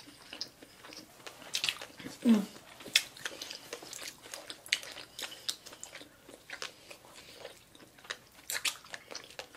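Chewing and biting of sushi, a tobiko hand-roll cone in a seaweed wrap: scattered wet mouth clicks and small crunches. A short falling vocal sound comes about two seconds in.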